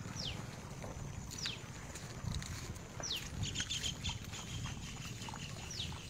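A bird calling with a short, sharply falling whistle, four times, over a steady low rumble. A second, fainter patch of quick clicking chatter comes about halfway through.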